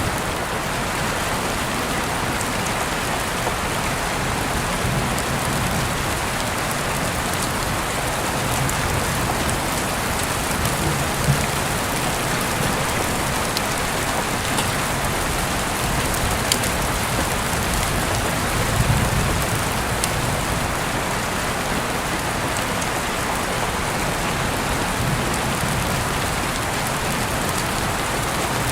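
Steady, continuous rain falling on surfaces, with a few faint sharp drop ticks and a couple of brief low swells.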